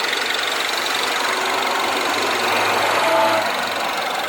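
Mini Cooper S Clubman's 1.6-litre turbocharged four-cylinder engine idling steadily.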